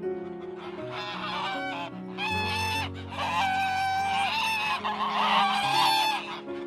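Several ducks calling, a string of nasal quacks, some held for about half a second, over soft background music.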